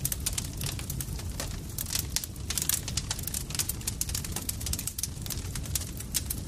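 Campfire crackling: dense, irregular sharp pops and snaps over a steady low rumble of the burning fire.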